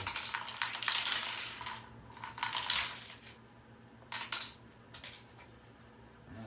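Loose metal screws and small hardware clattering and rattling: a dense clatter for about three seconds, then two short rattles about four and five seconds in.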